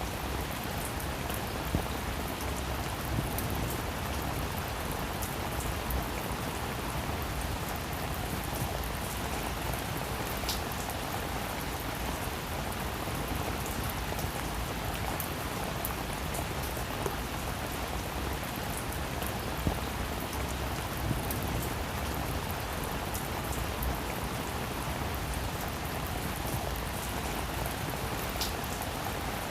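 Heavy rain falling steadily, with scattered close drops ticking sharply on a hard surface.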